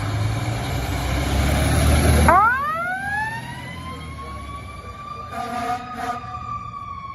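Loud fire-engine rumble, then about two seconds in the fire engine's mechanical siren winds up, rising steeply in pitch into a steady wail that slowly drifts lower.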